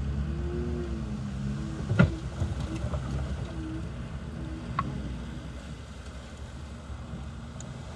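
A heavy earthmoving machine's diesel engine running, its pitch wavering up and down, with a sharp clank about two seconds in and a lighter one near five seconds; the engine gets quieter toward the end.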